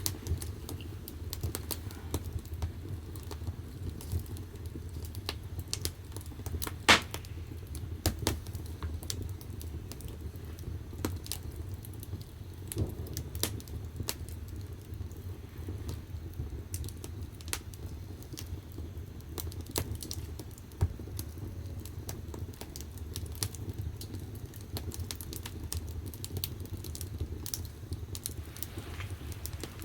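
Firewood burning in the firebox of a wood-fired bath: irregular crackles and pops over a steady low rumble of the fire, with one louder pop about seven seconds in.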